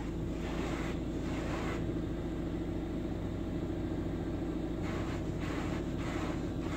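Touch-free car wash spraying pre-soak onto the car, heard from inside the cabin: spray hissing against the body in swells, strongest at the start and again about five seconds in, over a steady low hum.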